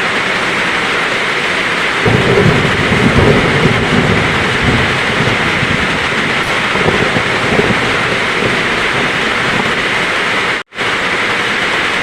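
Heavy rain falling steadily with rolling thunder, the low rumbles strongest from about two to five seconds in. The sound cuts out for a split second near the end.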